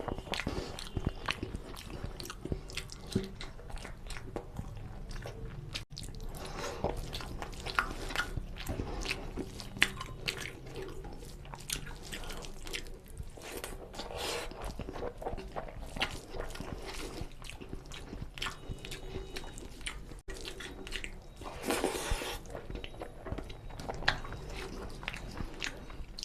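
Close-miked chewing and wet mouth sounds of a person eating rice and chicken curry by hand: soft smacks and many small irregular clicks as mouthfuls are chewed.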